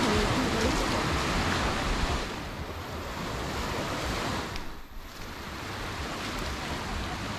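Surf washing onto a beach: a steady rush of breaking waves, loudest in the first two seconds, easing to a lull about five seconds in, then building again.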